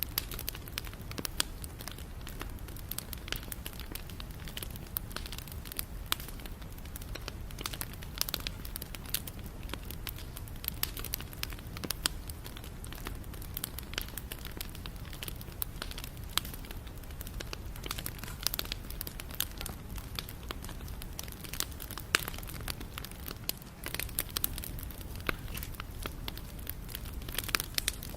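Wood campfire burning steadily, crackling and popping in quick irregular snaps over a low continuous rumble of the flames.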